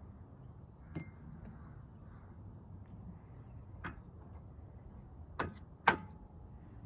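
Four scattered sharp clicks and knocks over a low steady background, the last two close together near the end; the loudest leaves a short ring, like small metal parts or tools being handled while a carburettor is taken apart.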